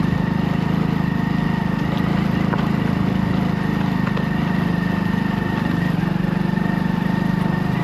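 The 97 cc single-cylinder engine of a Hero Splendor Plus XTEC motorcycle running steadily with an even, rapid putter and no change in engine speed.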